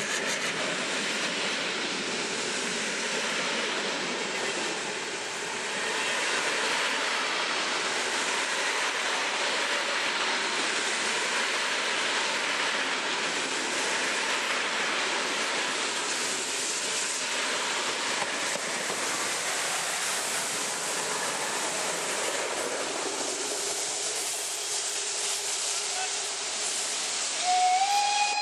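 Express steam locomotive: a steady hiss of steam mixed with train noise, then its steam whistle sounds near the end, a tone that glides slightly upward.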